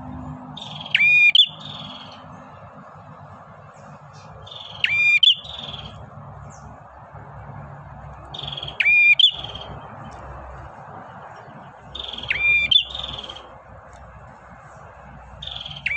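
Male prenjak singing in short, sharp, high-pitched bursts, five times, about every four seconds, over a steady background hiss.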